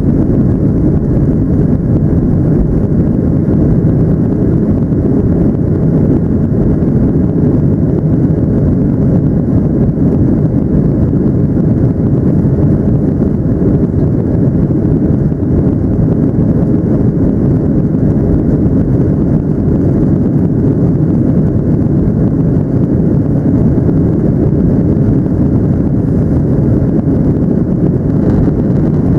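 Inside the cabin of a Boeing 737-700 airliner: a loud, steady low rumble of the jet engines and airflow, unchanging throughout.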